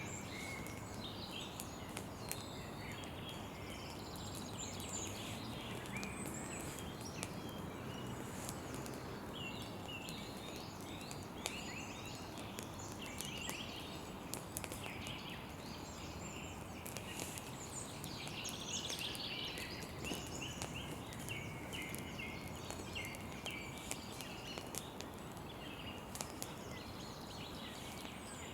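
Campfire crackling, with frequent sharp pops and snaps over a steady hiss, and birds chirping throughout.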